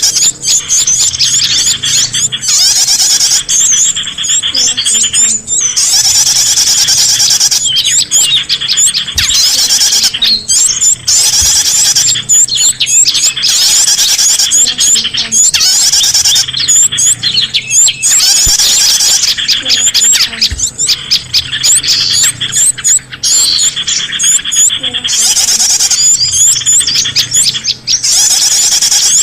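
Bird-lure recording of many small songbirds chirping and twittering together in a dense, high-pitched chorus. It comes in repeating stretches a few seconds long with brief breaks, a mix meant to draw in small birds of many kinds.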